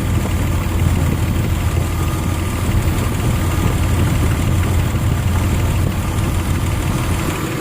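Nissan Xterra 3.3-litre V6 idling steadily under a light electrical load, with the headlights and fan switched on.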